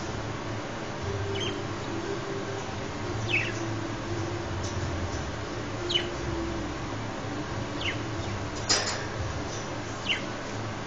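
Pet budgerigars giving short chirps that fall in pitch, about six of them a second or two apart, the loudest late on. A low, steady hum runs underneath.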